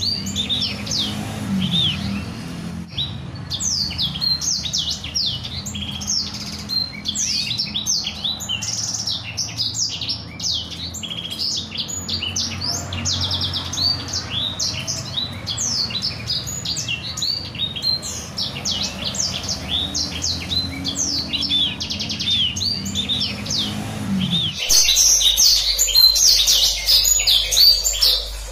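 Blacksang songbird singing a continuous rolling song of fast, repeated high sweeping notes and trills. A low hum underneath stops near the end, where the song becomes louder.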